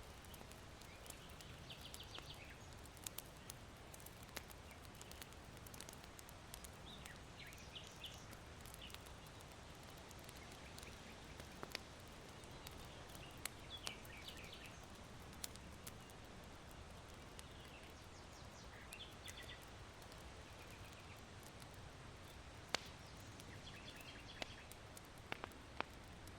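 Faint crackling of a charcoal fire in an irori hearth, with scattered small sharp pops, over a low steady hiss of wind. Small birds chirp faintly in short bursts every five seconds or so.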